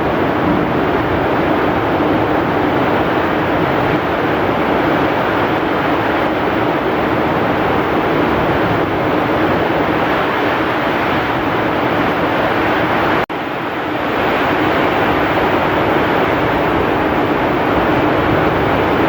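Heavy rain with strong wind: a steady, dense rushing noise. About two-thirds of the way through it cuts out for an instant, then resumes.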